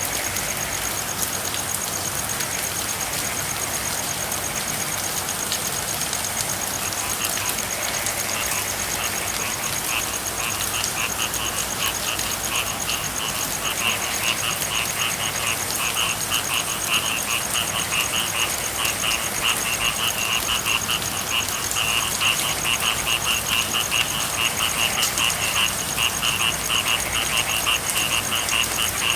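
Steady rain with frogs calling in fast trilling pulses, which start faint several seconds in and grow louder and more continuous toward the end. A thin steady high tone sounds throughout.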